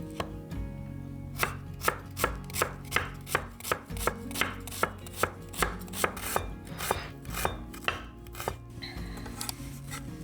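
A knife chopping on a cutting board in a steady rhythm of about two to three strokes a second, some eighteen chops, starting about a second and a half in and stopping shortly before the end.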